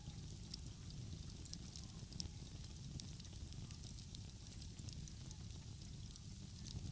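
Outdoor wood fire crackling, with frequent small sharp pops scattered irregularly, over a steady low rumble.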